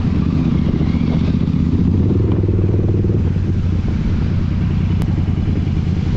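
Royal Enfield Continental GT 650's 648 cc parallel-twin engine, with its Code 6 tune, running steadily under way; it gets slightly louder about two seconds in.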